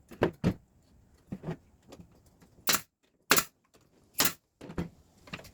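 A series of sharp clicks and knocks from small wooden shingles being handled and set in place on a small wooden roof, with three loud, crisp strikes in the middle.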